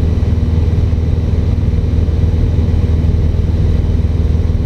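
Cessna 150's four-cylinder Continental O-200 engine and propeller at steady cruise, heard inside the cabin as a loud, even, low drone.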